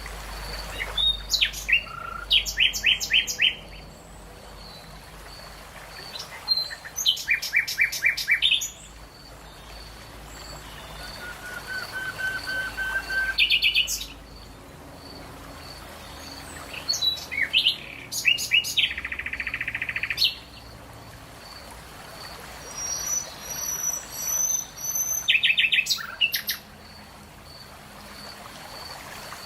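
Birdsong: a songbird sings short phrases of quick, repeated high notes every few seconds, with quieter gaps between them and a faint, steady high pulsing in the background.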